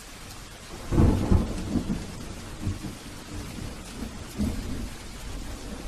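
Steady rain falling on garden foliage, with a loud low rumble about a second in and weaker low thumps over the next few seconds.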